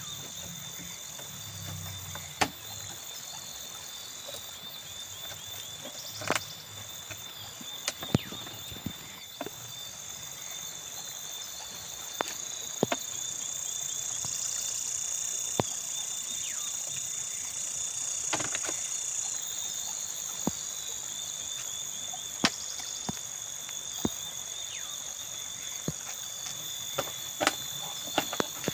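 Insects and frogs calling steadily in a continuous high trill, swelling for a few seconds in the middle. Scattered sharp knocks and clicks come at irregular intervals throughout.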